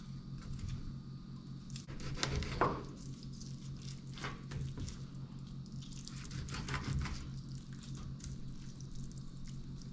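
Hands rubbing and patting seasoning onto raw fish, with soft squishing sounds. It is loudest about two and a half seconds in, with more around four and a half and seven seconds, over a steady low hum.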